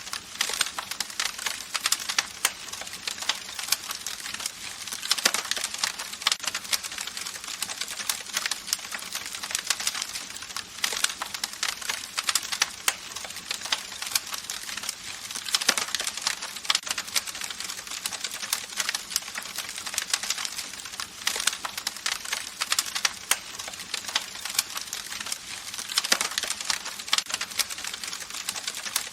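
Campfire crackling: dense, irregular snaps and pops of burning wood over a steady hiss, with clusters of louder pops now and then.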